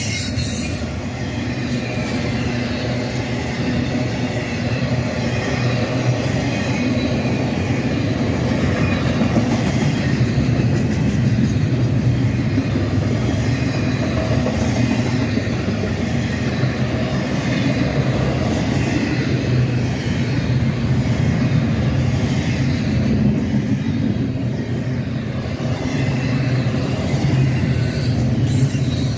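Freight train cars rolling past, a steady loud rumble of wheels on rail.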